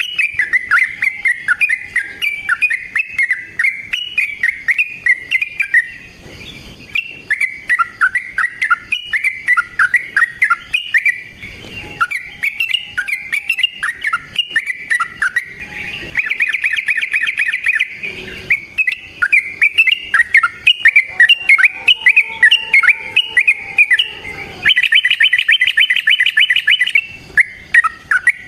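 Yellow-vented bulbul (trucukan) singing a long run of rapid, bubbly chattering phrases. Fast, even trills break in about 16 seconds in and again near the end.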